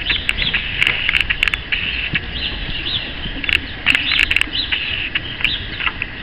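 A flock of small birds chirping: many quick, high chirps, several a second, over a steady twittering chatter.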